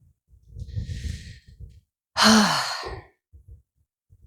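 A person breathing out hard after a climb: a softer breath about half a second in, then a loud, long sigh about two seconds in whose voice falls in pitch. The breathlessness comes from pushing a cart uphill while not in good physical condition.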